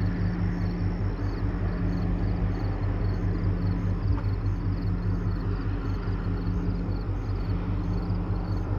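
Steady low drone of a large ship's engine as the tanker passes, with a faint, regularly repeating high-pitched chirping above it.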